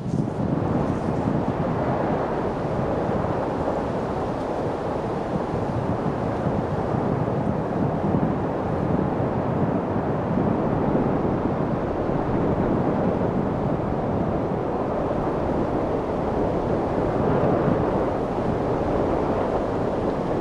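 Steady wind noise: an even rushing that swells only slightly, with no gusts or separate sounds.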